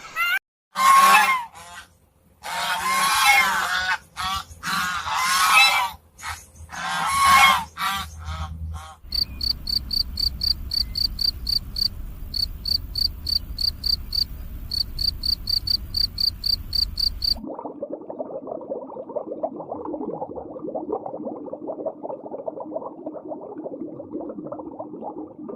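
Loud honking waterfowl calls come in repeated bouts for about nine seconds. They give way to rapid, even insect chirping, then to a lower, busy chattering for the last eight seconds.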